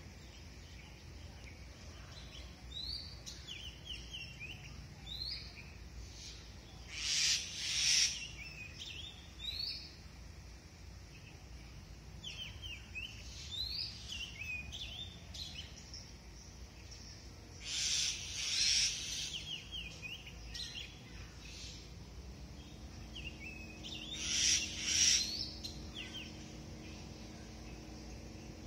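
Songbirds chirping and calling in the trees, short high chirps all through, broken three times by louder, scratchier bursts of calling. A low steady hum comes in near the end.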